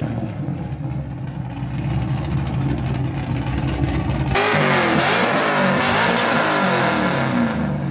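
Car engine running steadily, then revved hard about four seconds in, as in a launch, with a loud rushing noise over the wavering engine note.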